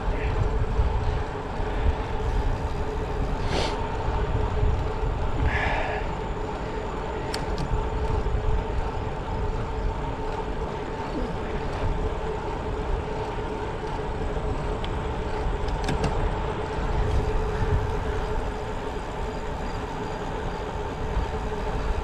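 Wind rumbling on the microphone and road noise of a bicycle being ridden, with a steady hum under it and a few sharp ticks.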